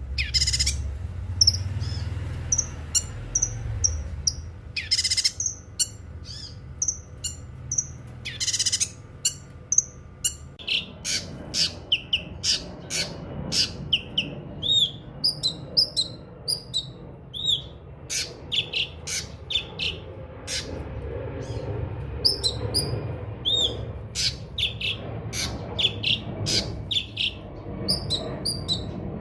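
Cucak kinoi songbird singing: a rapid run of sharp, high chirps and short whistled notes, with a few longer high notes in the first ten seconds, over a low steady background rumble.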